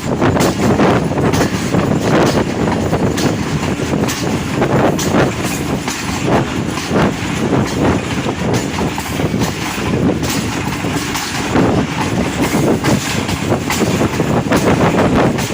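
Passenger train running along the track, with a steady rumble and the wheels clicking irregularly over rail joints.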